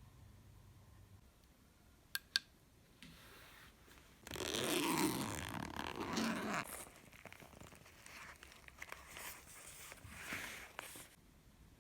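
Two quick clicks, then several seconds of rustling and crinkling handling noise, loudest in the first couple of seconds and trailing off into scattered small rustles and clicks.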